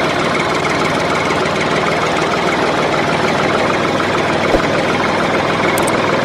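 Tractor engine sound effect: a diesel-type tractor engine running steadily at idle with a knocking beat, plus one short click about four and a half seconds in.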